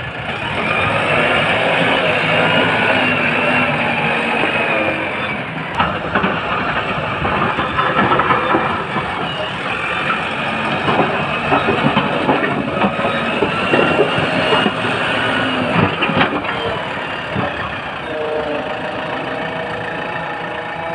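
JCB backhoe loader's diesel engine running under working load, with a wavering high whine over it and a few sharp metallic knocks.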